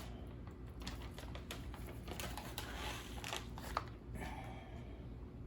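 Faint scattered light taps and rustling from handling food and utensils on the counter, over a low steady hum.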